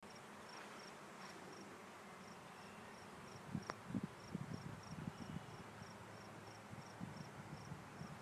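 Faint, steady high-pitched insect chirping, about three chirps a second, with a few low bumps and a click about halfway through.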